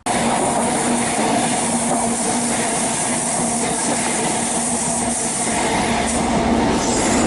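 InterCity 125 High Speed Train with Class 43 diesel power cars going through the station: steady diesel engine drone with wheel and rail noise, a low steady tone underneath.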